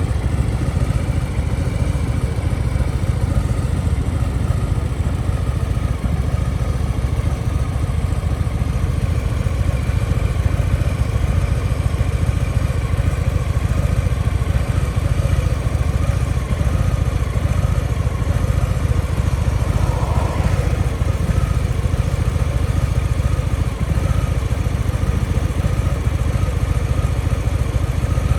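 2023 Harley-Davidson FXLRS Low Rider S's Milwaukee-Eight 117 V-twin idling steadily through an aftermarket Over Racing slip-on exhaust.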